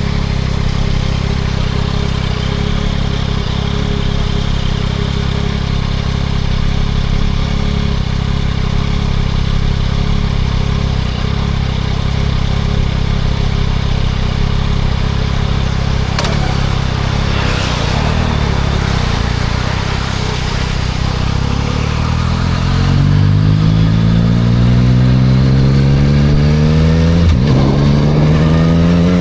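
2024 Yamaha MT-09 SP's three-cylinder engine through a Spark full exhaust, running at a steady low pitch for most of the stretch, then revving up as the bike accelerates about three-quarters of the way in, with a shift to the next gear near the end before it climbs again.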